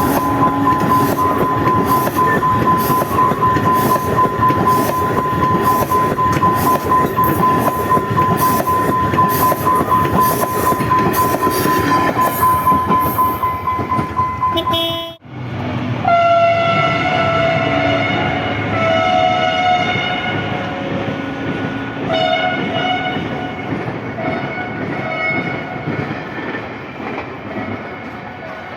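A diesel train passing with fast rhythmic wheel clatter and a steady high tone. After a sudden break about halfway, a locomotive horn sounds several separate blasts while the train noise slowly fades.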